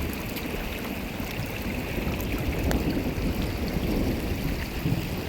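Steady rush of heavy rain and flowing floodwater, with scattered small ticks over a low rumble.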